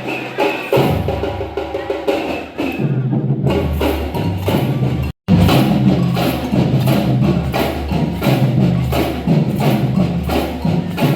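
Samba percussion band playing a driving, even beat: deep drum notes under rapid sharp strikes. The sound cuts out for an instant about five seconds in, then the playing carries on.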